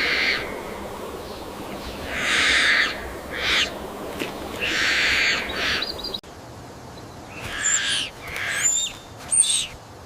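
Harsh, screeching bird calls repeated every second or two, then, after a sudden change about six seconds in, a quicker run of shorter calls with thin high whistles.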